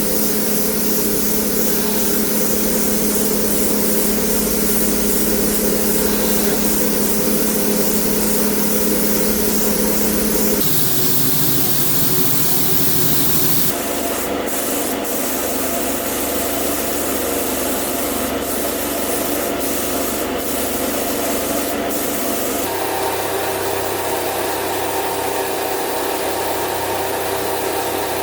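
Power sanding: a motor-driven sanding tool running against a surface, its steady motor hum changing abruptly three times as the tool or work changes, with a few sharp clicks in the middle stretch.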